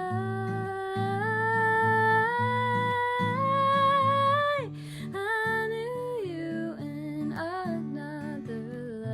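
Wordless singing over fingerpicked acoustic guitar: one long held note that climbs in small steps for about four and a half seconds, then breaks off into softer hummed runs.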